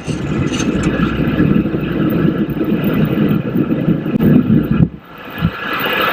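Cockpit noise of a Boeing 727-200 climbing out at takeoff thrust: a heavy rumble from its Pratt & Whitney JT8D engines and the airflow. About five seconds in it drops out suddenly for a moment, then comes back as a steadier hiss.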